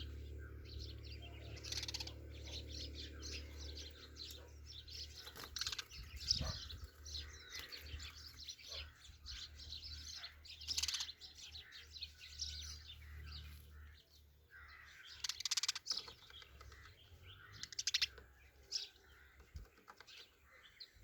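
Sparrows chirping, many short high chirps one after another with louder bursts of chirping at several points. A low steady hum underneath fades out about halfway through.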